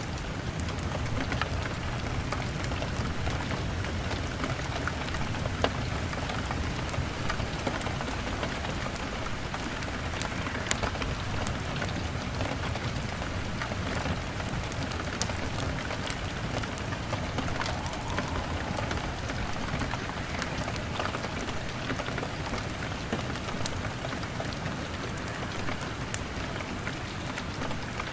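Steady rain falling on a window, an even wash of noise dotted throughout with many small sharp ticks.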